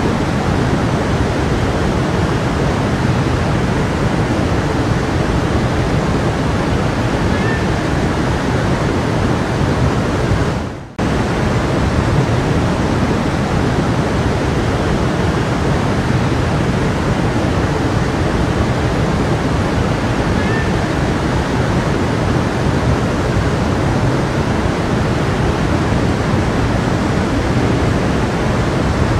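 Stream water rushing and splashing steadily. About eleven seconds in it fades briefly and cuts straight back in.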